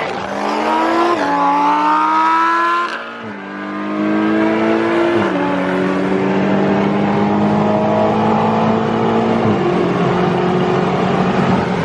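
BMW M5 engine at full throttle on a race run, climbing in pitch through each gear and dropping sharply at each upshift, four shifts in all.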